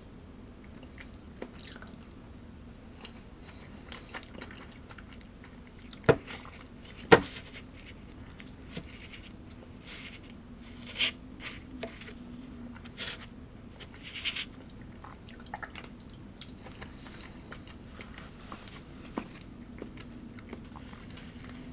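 A person eating at close range: chewing and crunching food, with scattered small crackles and two loud sharp knocks about six and seven seconds in. A faint steady hum runs underneath.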